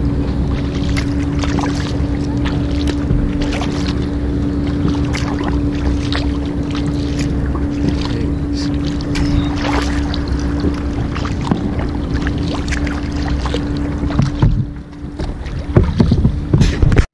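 A motorboat engine drones at a steady pitch while water splashes and slaps, as from kayak paddle strokes. The engine drone drops out about three seconds before the end, and louder splashes follow.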